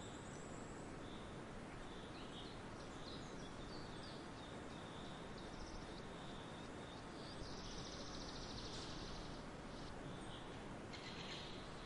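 Faint outdoor background hiss with small birds chirping and singing, a busier run of rapid chirps about seven and a half seconds in and again near the end.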